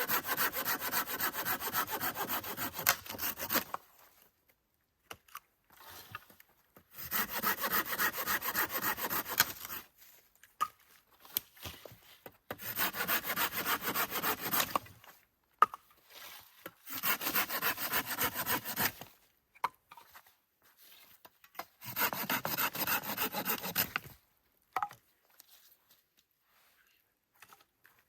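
Hand saw cutting through wood in five bouts of quick back-and-forth strokes, each lasting two to four seconds, with short pauses between bouts.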